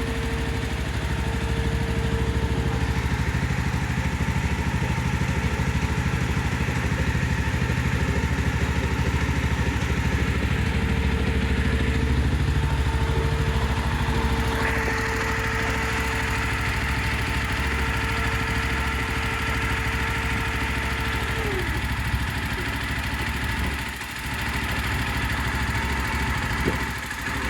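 Jawa 42 2.1's liquid-cooled single-cylinder engine idling steadily, with its radiator cooling fan already running after only about a kilometre of riding. A steady higher whine glides down and stops about three quarters of the way through.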